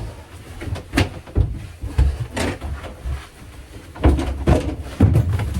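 Irregular knocks, bangs and short scrapes of hand demolition work on the boat's fiberglass berth and glued-on carpet.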